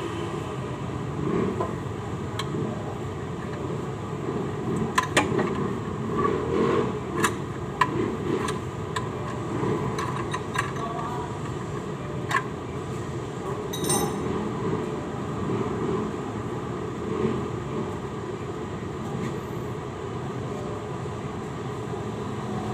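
Scattered metal clicks and clinks of hand tools working on bolts, over a steady background noise, as parts on the exhaust side of an Isuzu 4BE1 diesel engine are unbolted.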